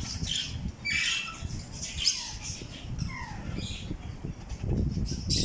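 Parrots squawking loudly, a string of short harsh calls about once a second, some falling in pitch, over a low steady rumble.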